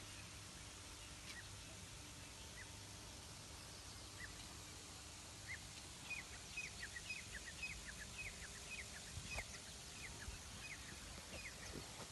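Faint bird chirps: short, falling high notes, a few scattered at first, then a quick series of them from about six seconds in, over a faint low hum.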